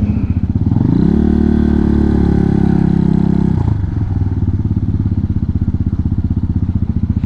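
Hawk 250 dual-sport motorcycle's single-cylinder four-stroke engine under way: it revs up about half a second in, holds a steady higher note for a couple of seconds, then drops back at about three and a half seconds to a lower, evenly pulsing run as the throttle is eased.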